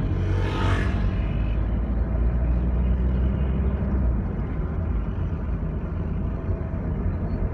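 Steady low rumble of a small truck driving, engine and road noise together, with a brief rushing whoosh about half a second in.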